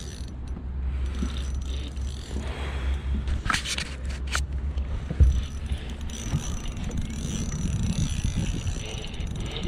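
Fishing reel cranked in with a fish on, its ratchet clicking, while wind buffets the microphone with a low rumble. A single loud thump comes about five seconds in.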